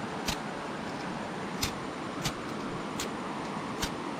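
Five sharp clicks, about one every three-quarters of a second, over a steady hiss: a lighter being struck again and again, throwing sparks as it tries to light a campfire that won't catch.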